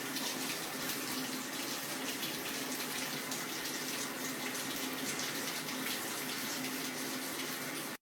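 Tap water running steadily in a steady, even rush.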